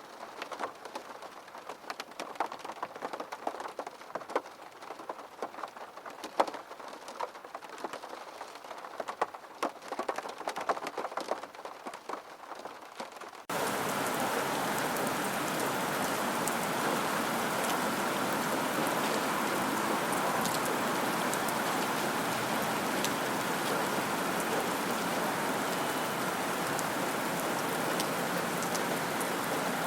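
Rain: scattered drops pattering at first, then about halfway through it cuts suddenly to steady, heavier rain.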